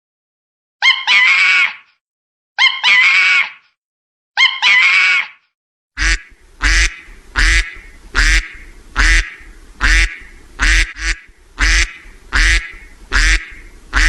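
Animal calls: three drawn-out calls about two seconds apart, then from about six seconds in a quicker, regular run of short calls, a little over one a second.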